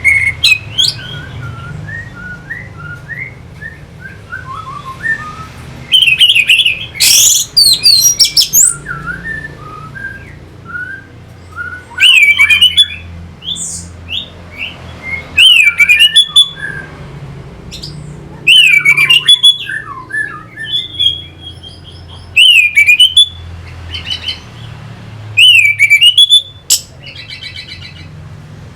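Orange-headed thrush singing: loud, rapid, varied phrases of whistled and harsh notes roughly every three seconds, with softer twittering between them.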